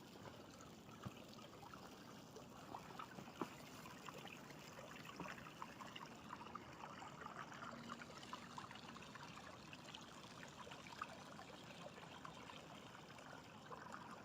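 Faint trickling water: a soft, irregular babble of small ticks.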